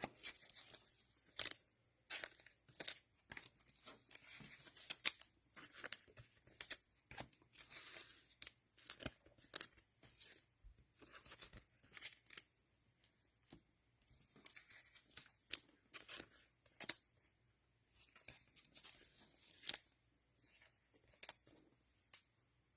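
Cellophane wrapper of a football trading-card cello pack being torn open and crinkled, in a long string of short crackles and snaps.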